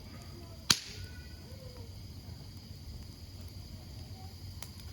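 Wood campfire burning with a low steady rumble and faint whistling from the logs, and one loud sharp pop of burning wood about a second in, then a smaller crackle near the end.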